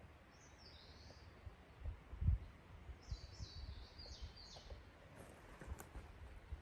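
A small songbird calling in short, falling chirps: one phrase about half a second in, then a quick run of four or five about three seconds in. Low dull thuds sound beneath it, the loudest about two seconds in.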